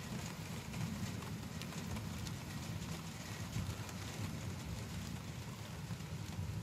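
Rain during a thunderstorm: a steady wash of noise with an uneven low rumble and scattered light ticks of drops.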